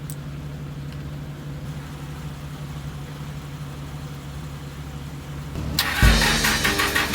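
A vehicle engine idling steadily. About six seconds in, guitar music starts suddenly and is louder than the engine.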